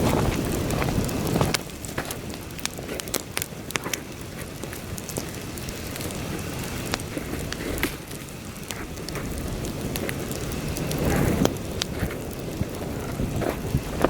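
Wood campfire crackling and popping, with many sharp snaps, while heavy wind blows and buffets the microphone with a low rumble. The wind gusts hardest in the first second and a half and again about eleven seconds in.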